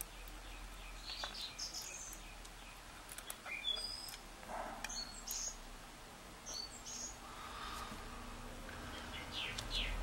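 Faint bird chirps: short, high calls scattered throughout, with a run of quick falling chirps near the end. A few light clicks come from metal tweezers setting small brass lock pins in a wooden pin tray.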